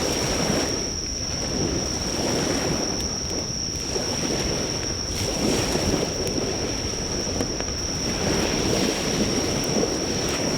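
Sea waves washing onto the shore in slow surges, under a steady high-pitched insect trill that never breaks. A few faint crackles come from a driftwood campfire.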